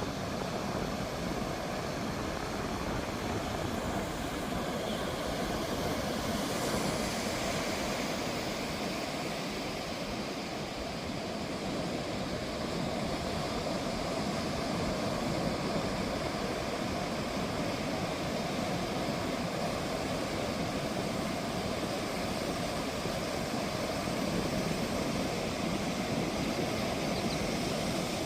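Ocean surf washing onto a sandy beach: a steady rush of breaking waves, with a slight swell about six seconds in.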